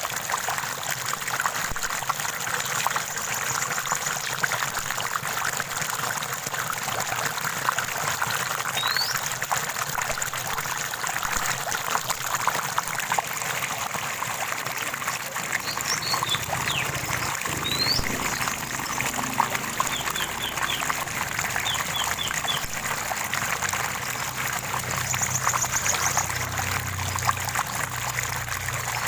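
Small stream running and trickling steadily, with a few songbirds chirping now and then: single short rising calls and quick runs of three or four notes, more of them in the second half.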